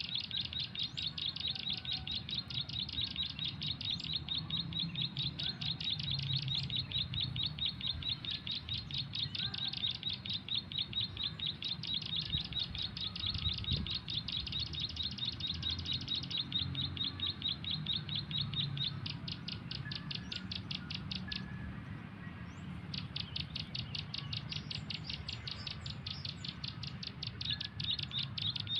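Small bird calling in a fast, even run of high chirps, about ten a second. The run breaks off for about a second and a half roughly three-quarters of the way through, then carries on.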